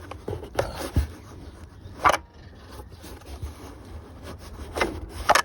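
A Craftsman lawn tractor's 15.5 overhead-valve engine being turned over by hand: scraping and rubbing with several sharp knocks, about a second in, at two seconds and twice near the end. It sounds like something is lodged inside the engine.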